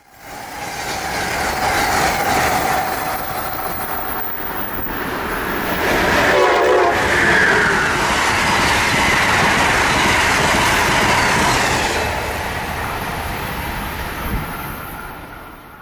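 A train running past on the rails, with a horn sounding about six seconds in. The sound fades in at the start and fades out at the end.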